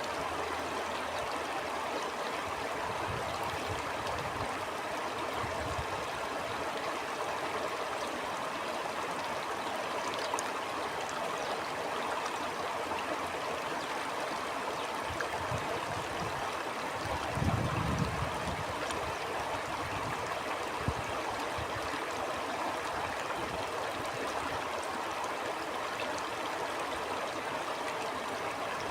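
A stream flowing steadily, a continuous rush of water. Low gusts of wind rumble in now and then, the strongest a little past the middle.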